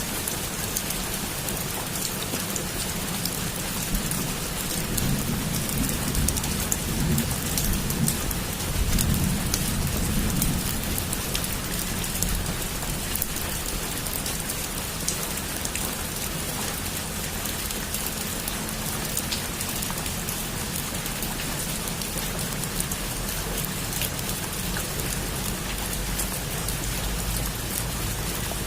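Heavy rain falling steadily, with scattered sharp drop hits. A low roll of thunder rumbles from about five to eleven seconds in.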